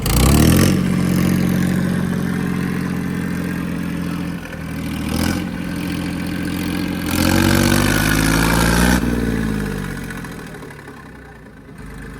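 Diesel tractor engine running hard under load while pulling in a tractor tug-of-war. It revs higher about seven seconds in, then drops back and fades near the end.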